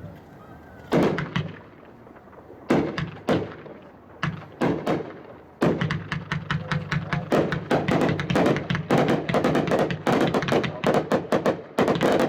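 Willow Wonder 24-shot 500-gram fireworks cake firing, two of them lit at once. A few separate shots and bangs come in the first five seconds, then a rapid run of shots and bursts to the end.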